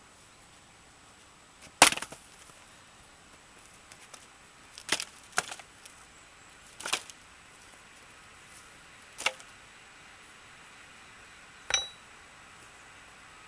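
Axe blows striking a damp, undried willow log, six separate strikes a second or two apart, the first the loudest; the last gives a short metallic ring. The wet wood does not split readily under the blows.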